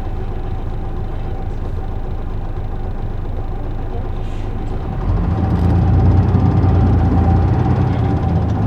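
Cabin running sound of an Isuzu Erga PJ-LV234L1 city bus: its six-cylinder diesel engine and road noise drone steadily. About five seconds in, the engine grows louder and deeper.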